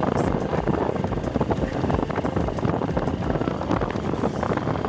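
Wind buffeting a phone's microphone on a moving Honda Shine 125 motorcycle, with the bike's small single-cylinder engine running underneath, as a steady, uneven rumble.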